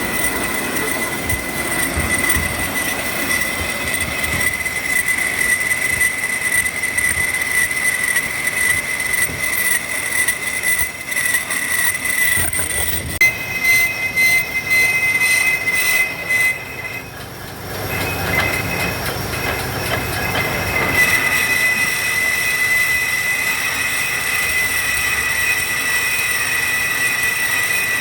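Shehzore truck engine running with a steady, high-pitched squeal from the pulley and belt drive; the squeal wavers and briefly drops out a little over halfway through, then returns steadily.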